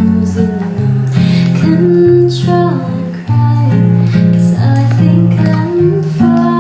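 Acoustic guitar playing a slow song, chords plucked and strummed.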